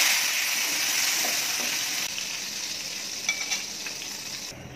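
Brinjal (eggplant) slices coated in turmeric and salt sizzling in hot oil in a frying pan, with a steady hiss that is loudest at the start and slowly dies down. A couple of faint ticks come a little past the middle.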